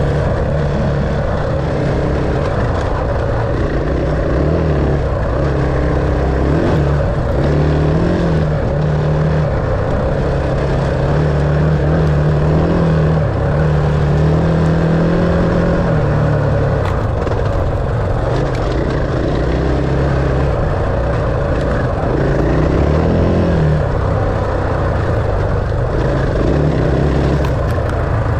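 Dirt bike engine running under changing throttle, its pitch stepping up and down as it revs and eases off.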